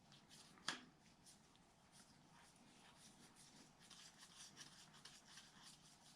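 Faint handwork on an engine: one sharp metallic click a little under a second in, then light ticking and scraping as a hand tool works a stuck valve lifter out of the 1950 Cadillac 331's block.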